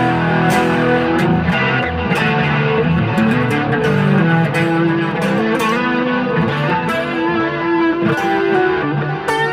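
Mexican-made Fender Stratocaster electric guitar played on its middle pickup through a clean amp setting. It runs through a continuous picked riff with low bass notes under single-note lines and chords.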